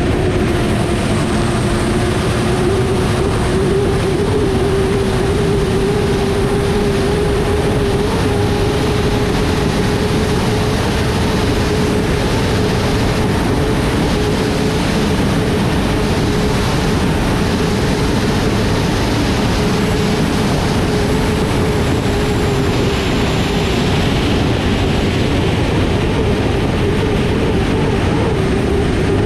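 Turbine engine of an unlimited hydroplane, heard onboard while racing at a steady speed: an even, held tone over a loud constant rush of noise.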